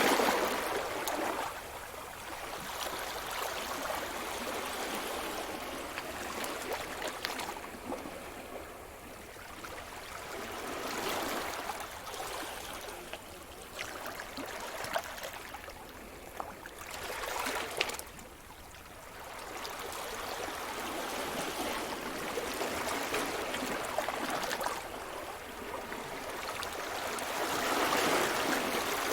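Sea surf: waves breaking and washing up a shore, the hiss of water swelling and easing several times.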